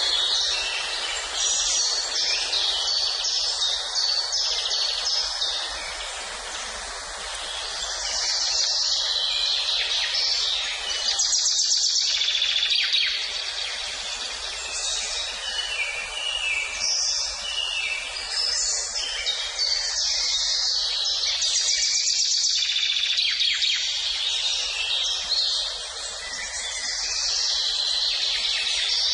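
A chorus of several songbirds singing and chirping at once, rapid overlapping trills and chirps with no break, over a steady background hiss.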